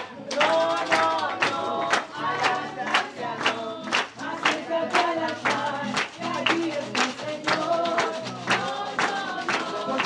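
A group of voices singing a song together in unison, over a steady beat of sharp strikes about twice a second.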